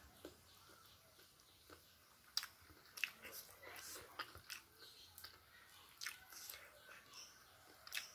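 Faint close-up chewing of rice and stir-fried squid, with a handful of sharp wet mouth clicks and smacks spread through.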